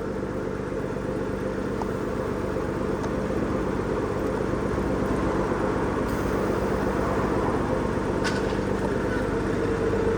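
An engine running steadily, a constant drone that slowly grows louder, with one short sharp click about eight seconds in.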